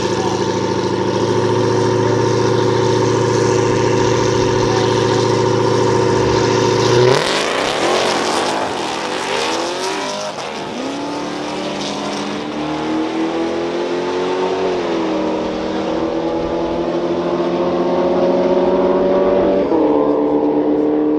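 Drag-race car engines holding steady at staging, then a car launching about seven seconds in and accelerating down the strip. Its engine pitch climbs steadily and drops back near the end as it shifts gear.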